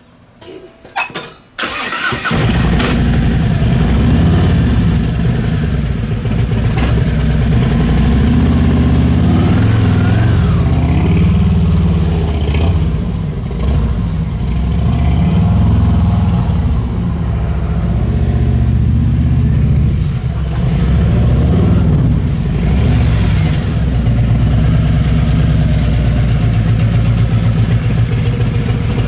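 Motorcycle engine starting about two seconds in, after a few clicks, then running at low revs with small rises and dips in throttle during slow-speed riding.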